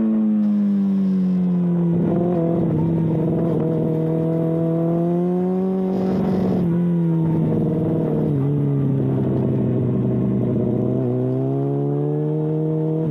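Sport motorcycle engine running under way, its pitch easing and holding, then dropping noticeably a little past halfway, as at an upshift. A short rushing burst comes about six seconds in.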